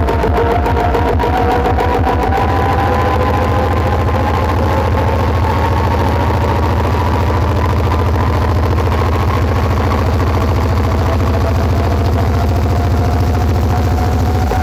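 Heavy bass from a 48-driver CG Tech sound system: a loud, deep, steady bass drone that pulses rapidly for about the first two seconds, then holds steady, with a few higher tones slowly rising in pitch above it.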